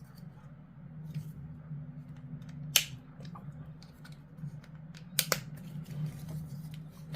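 A few sharp clicks and snaps of hard plastic model-kit pieces being handled and fitted, the loudest about three seconds in and two close together a little after five seconds, over a low steady hum.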